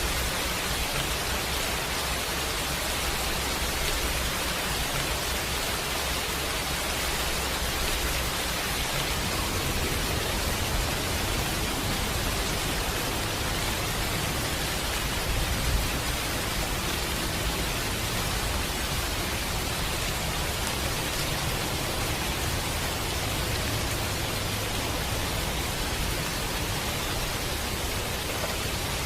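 Steady rain hiss from heavy rain, with a low rumble underneath that grows a little stronger about a third of the way in.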